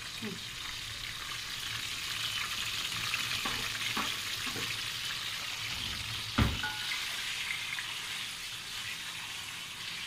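Green peppers frying in oil in a pot: a steady sizzle, with a few light clicks and one sharp knock about six seconds in.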